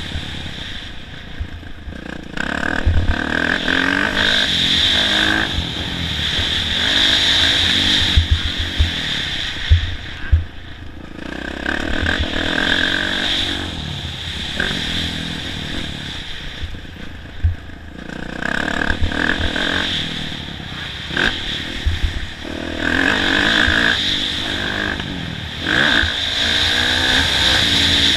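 Kawasaki KX450F single-cylinder four-stroke motocross bike's engine revving up hard and backing off again and again, roughly every three to five seconds, as it is ridden around a track. Frequent low knocks and rattles from the ride run underneath.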